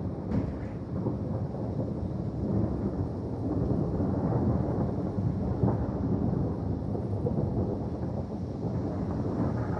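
Distant thunder rolling: a long, continuous low rumble that swells and fades a little without any sharp crack.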